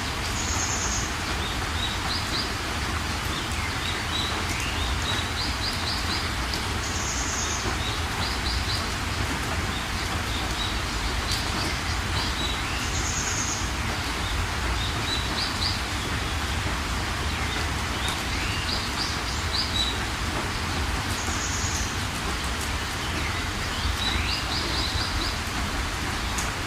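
Steady rain with a low rumble beneath, and birds calling over it. A short high call comes about every six seconds, between quick trills and a few rising whistles.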